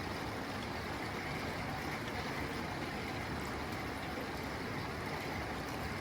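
Rain falling steadily on a tin roof, an even hiss without a break.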